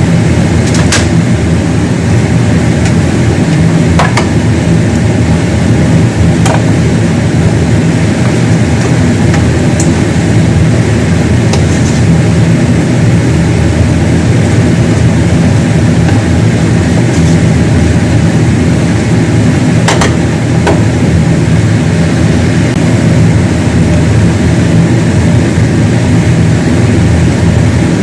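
Steady, loud, low machine hum, with a few sharp clicks and knocks over it.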